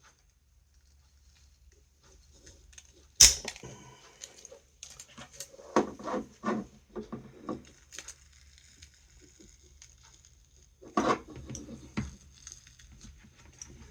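Handling noise from working a silicone-sealed circuit board loose from its plastic housing: a sharp knock about three seconds in, then a run of clicks and scrapes, and another cluster of knocks and scrapes near the end.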